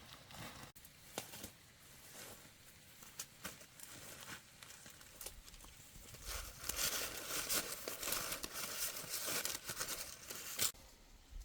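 Rustling and crackling of dry material with many small snaps. It grows louder from about six seconds in and stops suddenly near the end.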